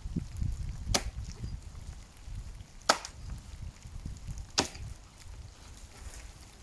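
Three axe blows chopping into the trunk of a dead oak tree, each a sharp single strike, about two seconds apart, the middle one the loudest.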